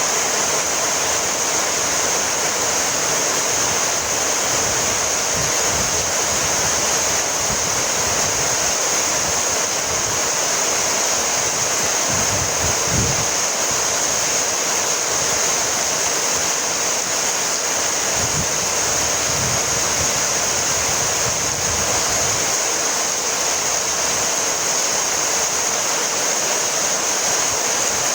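Heavy rain falling steadily, an even hiss with a few brief low rumbles in the middle.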